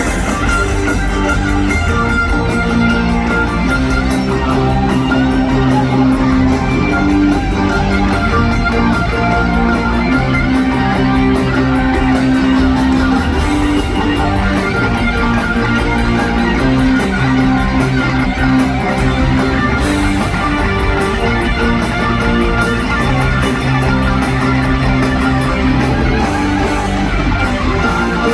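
Live rock band playing loudly: electric guitars and bass over a steady drum beat, recorded in an arena.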